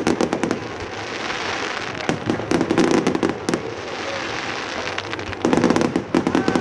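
Aerial fireworks shells bursting, a rapid run of sharp pops and crackles that comes in two dense rolls, one about two to three and a half seconds in and another near the end.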